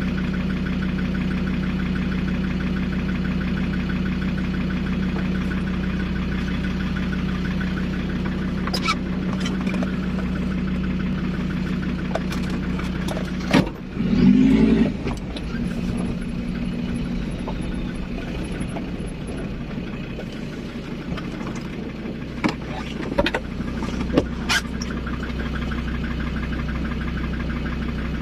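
A 4x4's engine idling steadily. About halfway through there is a sharp knock and a short louder burst, and a few sharp clicks come near the end.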